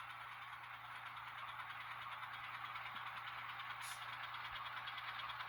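Diesel engine sound from the ESU LokSound decoder in an Atlas Gold Series N scale switcher, played through the locomotive's small speaker as it rolls slowly through a turnout, with a steady low hum under it. A single light click about four seconds in.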